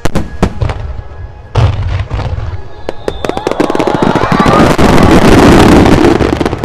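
Fireworks display: aerial shells burst with sharp booms at the start and again about a second and a half in, then a rapid, dense crackling of many small bursts builds up and grows loudest near the end.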